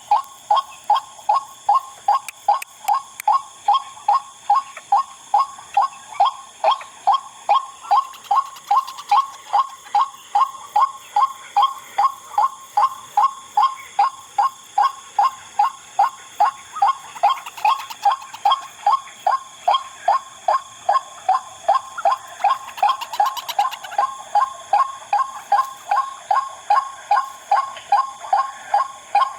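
The wak-wak call of a white-breasted waterhen: a long, even series of short 'wak' notes, about two or three a second, that never pauses.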